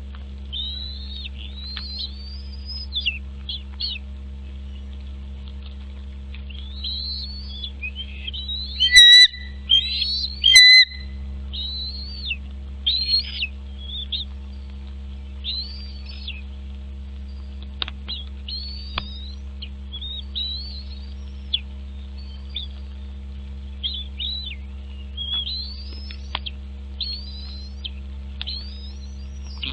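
Bird calling in a long run of short, high chirps that sweep up and down, often several a second, with two much louder calls about a third of the way in. A steady low hum runs underneath.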